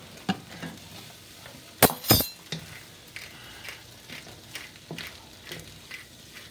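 Onions sizzling in a frying pan, with scattered clinks of utensils and dishes; two sharp knocks close together about two seconds in are the loudest sounds.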